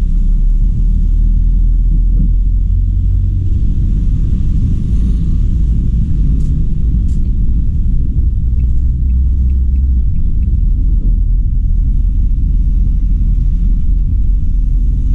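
A car being driven, heard as a steady, loud low rumble of road and engine noise. About halfway through there is a short run of faint, evenly spaced light ticks.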